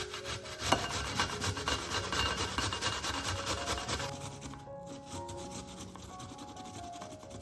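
Quick, repeated rasping scrapes, loudest for the first four seconds and lighter after, over soft background music.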